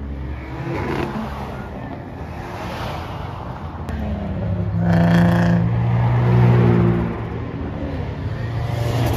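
A car accelerating hard past, its engine note building to a loud peak about five seconds in, dipping briefly, then loud again before it fades as the car goes by.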